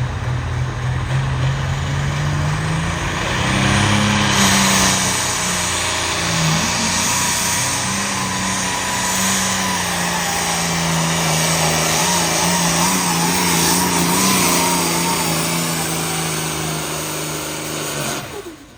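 A pulling truck or tractor engine running at high revs under load during a pull. The pitch climbs a few seconds in, then holds with slight wavering. It cuts off suddenly near the end.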